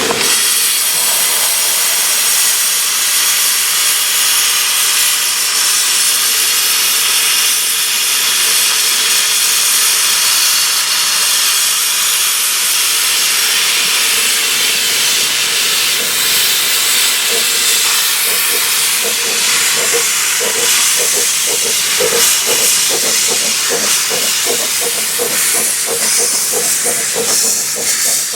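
Steam locomotive Merddin Emrys, a Ffestiniog Railway double Fairlie, letting off a loud steady hiss of steam. About two-thirds of the way in, a quick regular pulsing joins the hiss.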